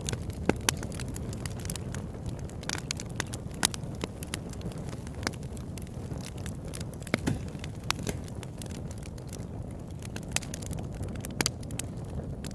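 Campfire burning: irregular sharp crackles and pops of burning wood over a steady low rush of the flames.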